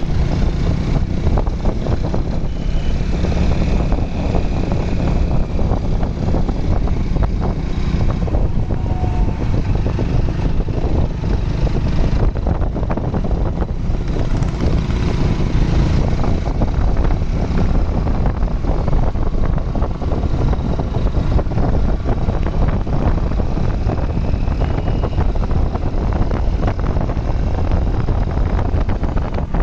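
Hero Splendor motorcycle on the move, its single-cylinder engine running steadily under heavy wind buffeting on the microphone.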